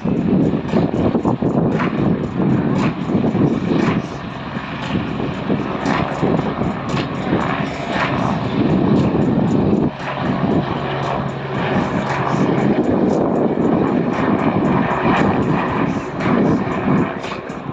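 PZL-130 Orlik turboprop trainers of the Orlik aerobatic team flying their display, a steady propeller-and-turbine drone that rises and falls as the aircraft pass.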